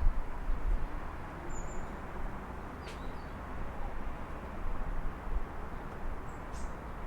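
Steady distant city traffic hum with a low rumble, and a few short, high bird chirps: about a second and a half in, around three seconds, and again near the end.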